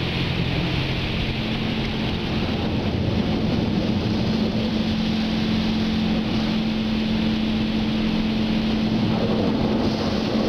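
Automatic car wash rinse cycle heard from inside the car: water spray pouring steadily onto the body and windows, with a steady low hum underneath.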